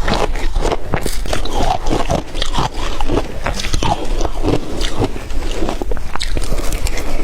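Shaved ice being bitten and chewed: a loud, dense run of crisp crunches and crackles with no pause.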